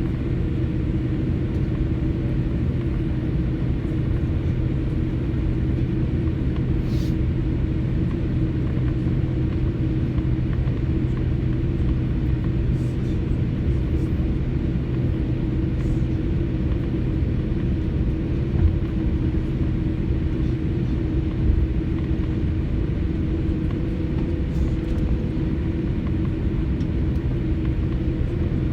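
Cabin noise inside a jet airliner before takeoff: a steady low rumble with a constant hum from the engines and air conditioning. A couple of brief bumps come about two-thirds of the way through.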